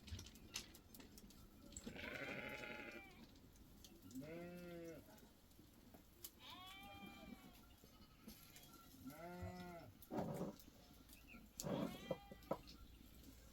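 Sheep in a grazing flock bleating, about five calls of roughly a second each at different pitches, with scattered light clicks between them.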